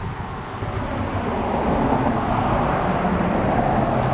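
A motor vehicle running, its engine and road noise growing steadily louder.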